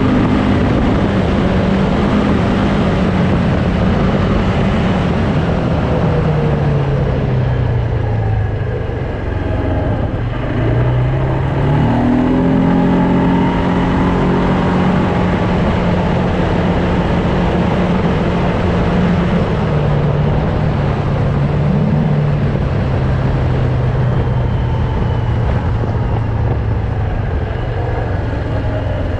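Loncin ATV engine running while riding. Its pitch drops as it slows about eight to ten seconds in, rises again as it speeds up around twelve seconds, then holds steady.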